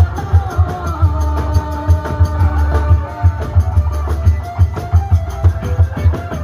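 Live procession band music, of the kind played for a Sasak nyongkolan: a heavy, steady low drum beat under a melody line that glides from note to note.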